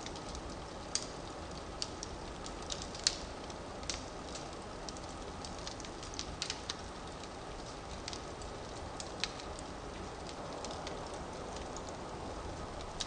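Wood fire burning, with a steady low hiss and irregular sharp crackles and pops of burning logs, the loudest about a second and three seconds in.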